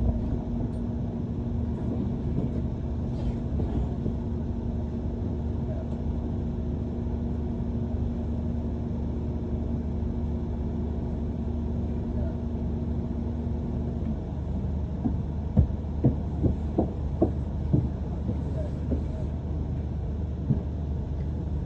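Inside a moving London double-decker bus: a steady low rumble of the engine and road, with a steady hum that cuts off about two-thirds of the way in. After that, a series of sharp knocks and rattles from the bus body.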